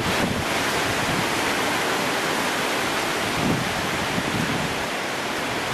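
Strong thunderstorm winds rushing steadily, with gusts buffeting the microphone in low rumbles.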